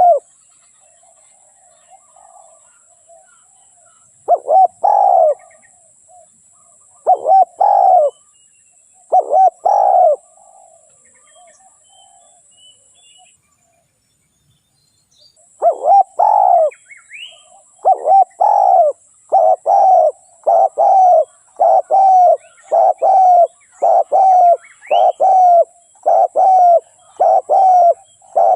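Spotted dove cooing. A few spaced phrases of two or three coos come in the first ten seconds, then after a pause a fast run of repeated coos, more than one a second, lasts to the end. A faint steady high hiss and a few faint small-bird chirps lie underneath.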